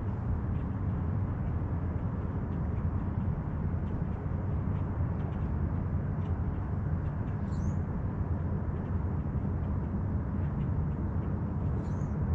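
Steady low rumble of a distant motorboat engine, with two short high bird chirps, one about halfway through and one near the end.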